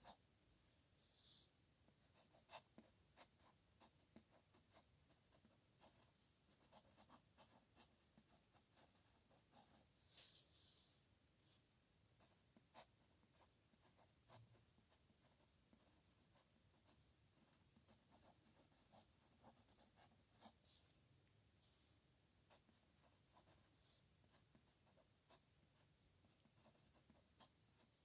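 Faint pen on paper writing signatures: quick short strokes and ticks, with a few longer scratchy sweeps across the page.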